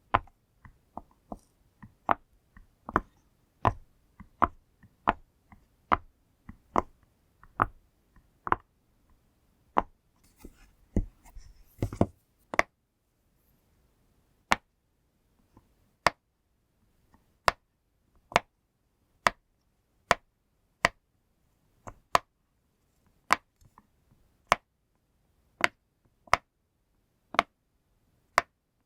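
Pop toy's bubbles being pressed one at a time, each giving a sharp little pop, about one and a half a second at first. A short stretch of handling rustle comes about ten seconds in, and after that the pops come more slowly, about one a second.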